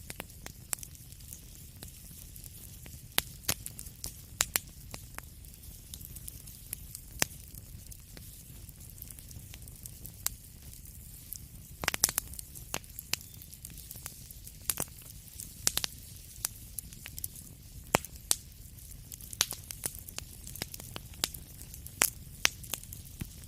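Wood fire in a fireplace crackling, with a low rumble and hiss under irregular sharp pops, a quick cluster of louder ones about halfway through.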